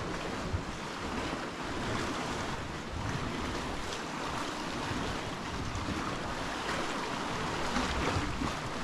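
Sea waves washing steadily against the shore, with wind buffeting the microphone.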